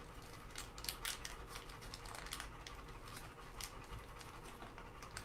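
Faint, irregular clicks and rustles of wire and ribbon being handled and snipped while assembling a wreath.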